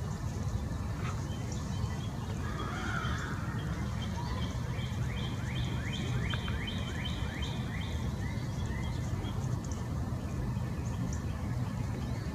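A songbird sings a quick run of about ten downward-slurred notes lasting a few seconds, over a steady low rumble.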